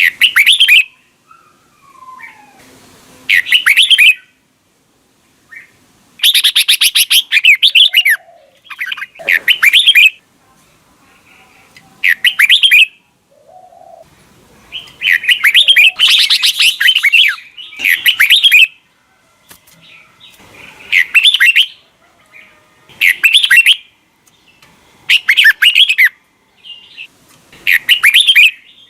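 Red-whiskered bulbul singing: about a dozen loud, fast phrases of quickly repeated notes, each lasting about a second, with short pauses between them.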